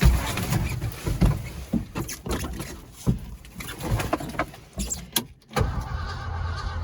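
Starter cranking the old Ford F-250 Highboy's engine on a cold start after a shot of starting fluid, uneven with loud knocks for the first five seconds or so, then a short break and steadier cranking.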